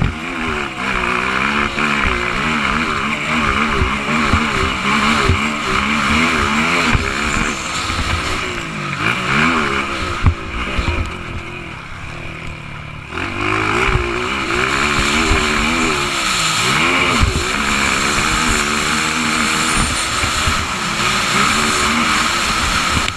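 Motocross bike engines revving up and down repeatedly as the riders work the throttle through the track, with a brief lull about halfway before the revving picks up again.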